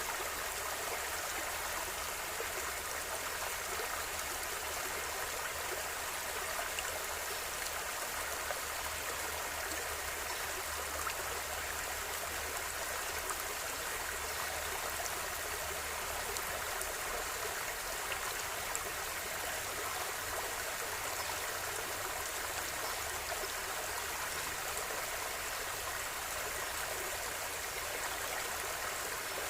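River water flowing steadily over stones, a continuous rushing with small trickles and splashes.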